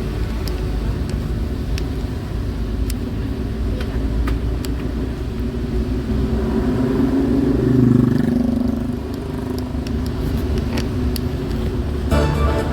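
Road traffic: a steady low rumble of passing cars and motorbikes, with one vehicle passing close and loudest about eight seconds in. Music comes back in near the end.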